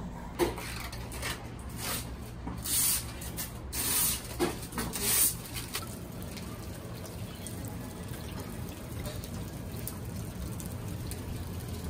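Rustling and brushing for the first five seconds or so, then rain falling steadily into a puddle on concrete, an even hiss of drops.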